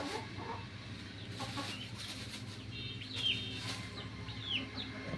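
Chickens clucking, with a few short high chirps that fall in pitch, over a steady low hum.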